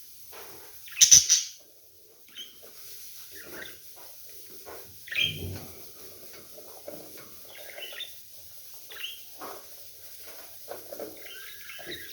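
Pet budgerigars chirping and chattering in short scattered calls, with a loud sharp burst about a second in.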